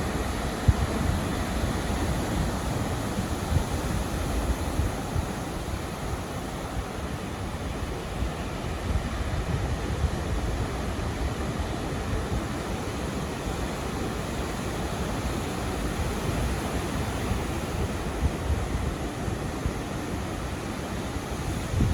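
Ocean surf washing in steadily, with wind buffeting the microphone in uneven low gusts.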